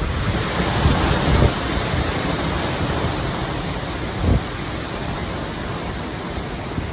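Hurricane wind and rain: a steady hiss that eases slightly, with wind buffeting the microphone at the start and a brief gust about four seconds in.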